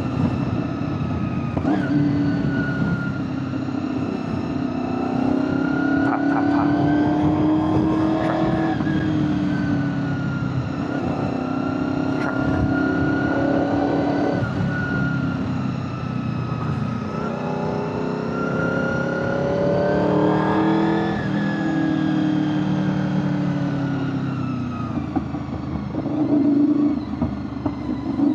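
A 2001 Honda VFR800FI Interceptor's V4 engine running on the move, its note rising and falling several times with throttle and gear changes, with heavy wind noise on the rider's microphone.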